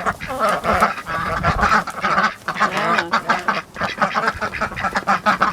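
A flock of domestic ducks quacking and chattering over one another, many short calls in a continuous overlapping stream.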